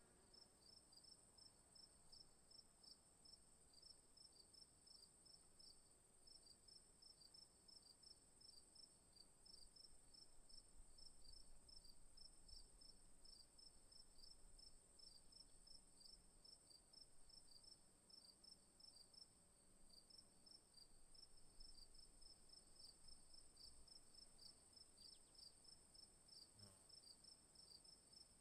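Faint insect chorus: one insect's steady high trill, with another's rapid pulsing chirps, several a second, going on without a break.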